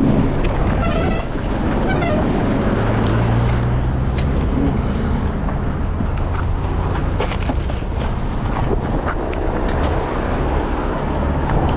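A car driving: steady engine and road noise, with scattered short clicks and knocks.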